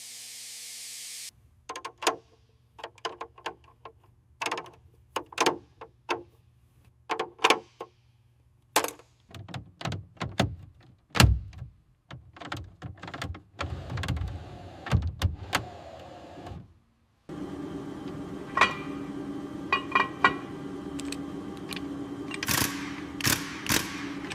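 Hands-on mechanical work on a truck: a series of sharp metallic clicks and knocks, with heavier low thuds near the middle. The sound changes abruptly several times, and the last part has a steady hum under the clicks.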